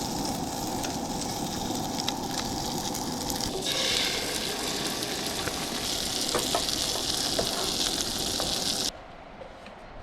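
Food sizzling in a frying pan, a steady hiss with small pops. It grows brighter after a cut about three and a half seconds in and stops abruptly near the end.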